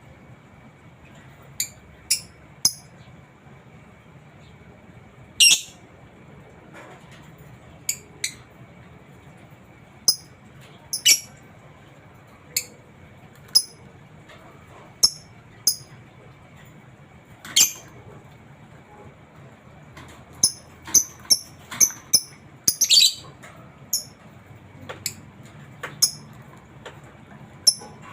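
Lovebird giving short, shrill chirps at irregular intervals, with a quicker run of calls past the middle.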